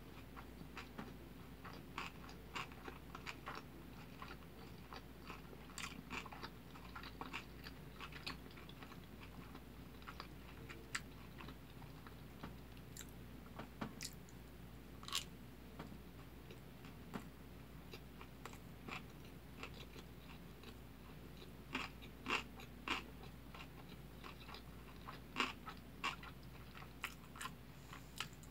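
A person chewing mouthfuls of kimbap (seaweed-wrapped rice rolls): a steady run of small wet mouth clicks and crunches, with a few louder crunches in the second half.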